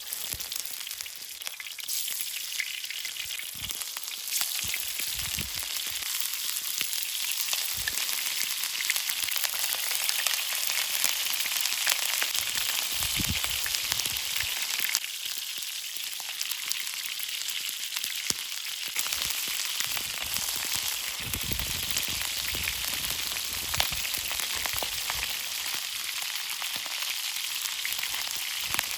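Food frying in a pan over a campfire: a steady high sizzle, thick with small crackles and pops. A few soft low thumps come through now and then.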